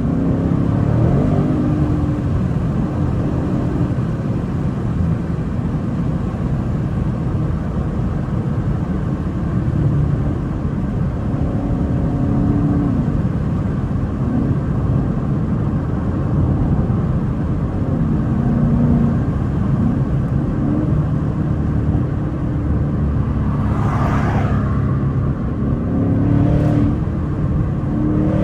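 2024 Ford Mustang GT's 5.0-litre V8 running under way, with high-flow Steeda air filters and the intake carbon traps removed; its pitch rises and falls with throttle and gear changes. Near the end comes a brief rushing sound, then a short tick.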